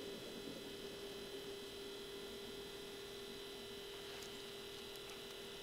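Faint steady electrical hum with a constant tone, with a few faint ticks near the end.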